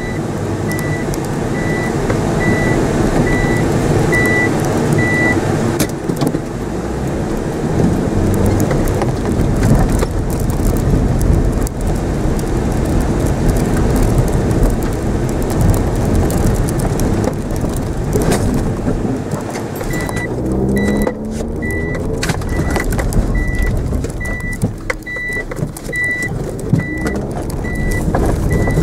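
Mitsubishi Mirage engine heard from inside the cabin, revving up and down as the car is driven hard around a grass course, with a clear rising rev about twenty seconds in. A short electronic beep repeats about twice a second for the first five seconds, stops, and returns about twenty seconds in.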